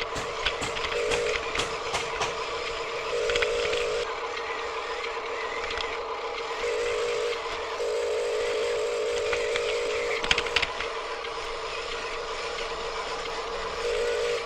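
Small electric motor and gears of a remote-control toy truck whining at a steady pitch in on-and-off stretches of a second or two, with plastic clicks and rattles and a brief cluster of knocks about ten seconds in.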